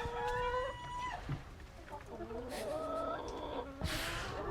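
Chickens calling: a drawn-out call in the first second, then several shorter clucking calls around the middle, with a couple of brief rustles.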